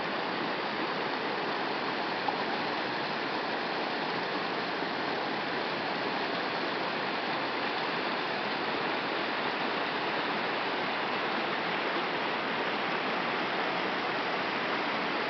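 Creek water running and falling over ice, a steady, even splashing flow.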